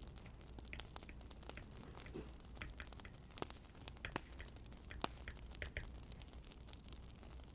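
Wood fire crackling faintly: irregular sharp pops and snaps, several a second, over a soft steady hiss.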